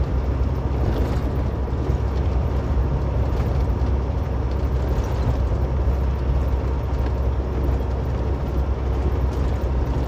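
Steady road and engine noise inside a vehicle's cabin while driving on a highway, a constant low rumble without distinct events.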